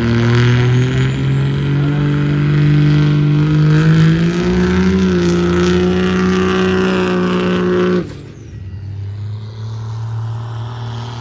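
Diesel pickup drag-racing engines at full throttle, the engine note climbing steadily with a high whistle above it. About four and a half seconds in there is a step in pitch, then it holds high. Near two-thirds of the way through it cuts off abruptly to a lower, quieter steady engine note.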